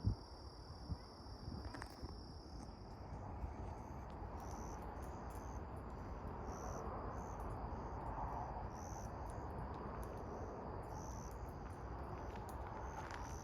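Insects chirping high and shrill: a steady trill for the first few seconds, then regular short chirps, over low outdoor background noise.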